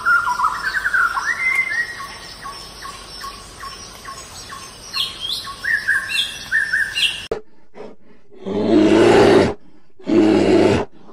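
A toucan calling for about seven seconds, a series of rising chirps and chattering notes. After a short gap, a polar bear roars twice, each roar about a second long.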